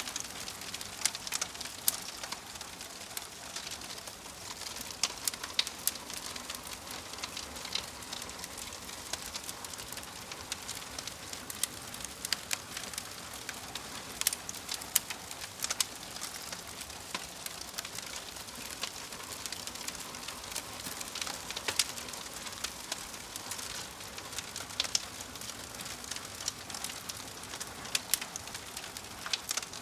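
Burning logs crackling in a fireplace: a steady hiss with frequent irregular pops and snaps, a few of them sharper and louder.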